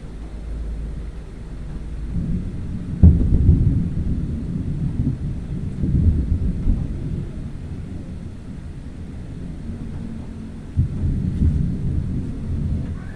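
Thunder rolling and rumbling, with a sudden sharp crack about three seconds in and another peal near the end, each dying away in a long low rumble.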